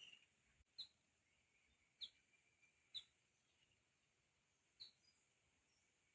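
Faint, short, high bird chirps, five single calls about a second apart, over a faint steady hiss.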